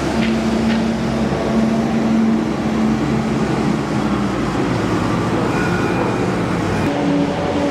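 An engine running steadily. Its low drone fades out about four seconds in, and a different, slightly higher hum comes in near the end.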